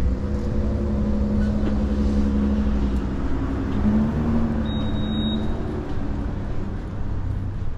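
A motor vehicle's engine running close by over a low traffic rumble, its note rising slightly about four seconds in and dying away near the end.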